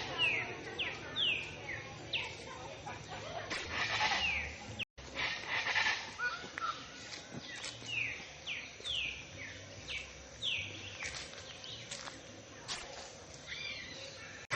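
Songbird calling in runs of short, falling whistled notes, about two a second, over outdoor background noise. The sound cuts out for a moment about five seconds in.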